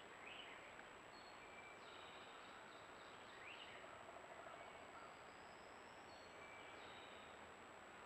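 Faint woodland birdsong over a steady hiss: one bird repeats a short call twice, a few seconds apart, among scattered higher chirps. A faint, steady high-pitched whine runs underneath.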